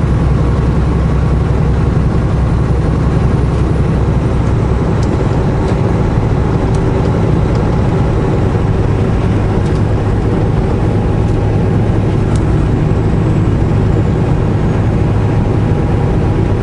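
Semi truck's diesel engine running steadily at highway speed with road noise, heard from inside the cab.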